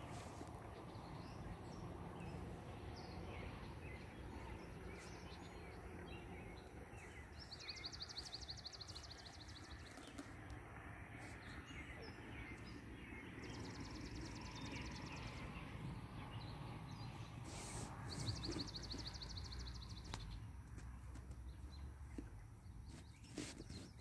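Outdoor ambience with a bird's high, rapid trill, each about two seconds long, repeating every five seconds or so over a steady low rumble. A few soft knocks sound near the end.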